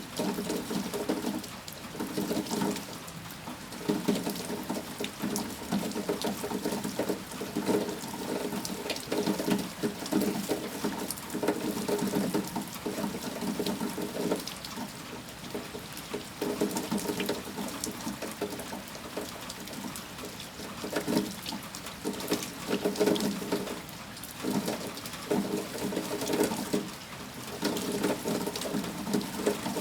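Heavy rain with water pouring and splashing, swelling and easing irregularly every second or two.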